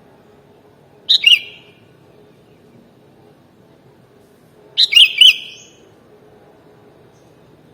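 Sooty-headed bulbul (kutilang) calling: two short, loud phrases of a few quick notes, one about a second in and another about five seconds in, over a faint steady low hum.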